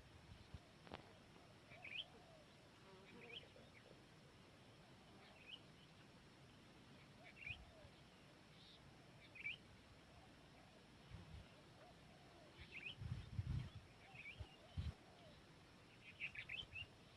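Faint birdsong: short high chirps every second or two, over faint low cooing of a spotted dove. A few soft low thumps come about two-thirds of the way through.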